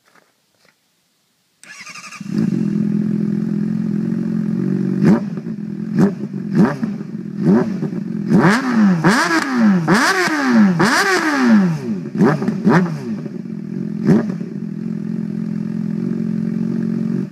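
Honda CBR600RR's inline-four engine through a Toce slip-on exhaust, starting up about two seconds in and idling. It is then blipped repeatedly, quick revs that rise and fall, several in close succession in the middle, before it settles back to idle and cuts off suddenly at the end.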